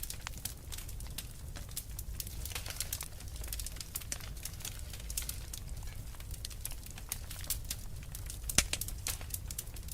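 Wood fire crackling steadily: many small sharp pops over a low rumble, with one louder snap near the end.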